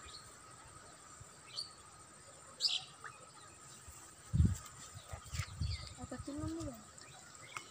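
Quiet pond-side ambience with a few brief high bird chirps, a couple of dull low thumps and a short low call late on, over a faint steady high tone.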